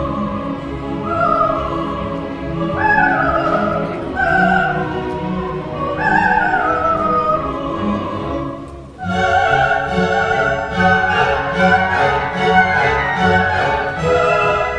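A coloratura soprano sings a wordless vocalise over an orchestra, in high phrases that run downward. About nine seconds in, the voice stops after a brief dip, and the orchestra takes over with fast repeated notes led by the strings.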